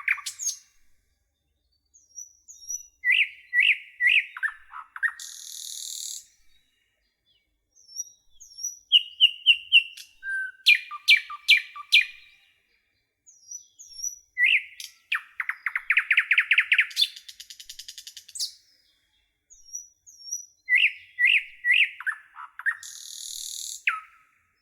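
A nightingale singing in four separate phrases with short pauses between them. Each phrase is built from fast repeated notes and rapid trills, and most end in a harsh buzz.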